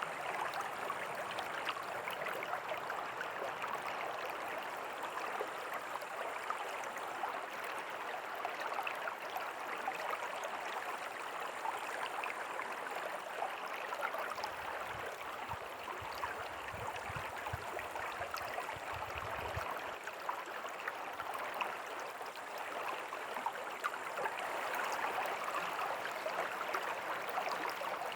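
River water flowing steadily, an even rushing and babbling. A faint low rumble joins it for several seconds around the middle.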